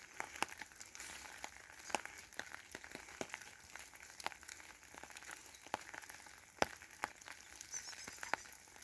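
Faint, irregular clicks and crackles, a few a second, over a low hiss.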